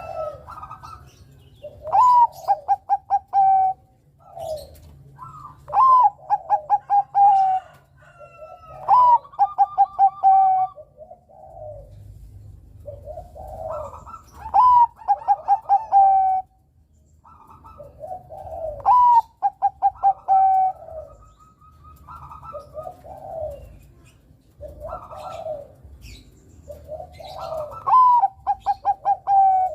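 Zebra dove (perkutut), a Bangkok-type song bird, singing its repeated cooing song. Each phrase of about a second and a half opens with a rising note and runs into a quick string of about six staccato coos. The loud phrases come roughly every four seconds, with softer coos between them.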